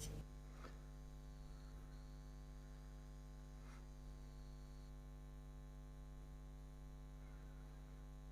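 Faint, steady electrical mains hum, with two light clicks, one about a second in and one near four seconds.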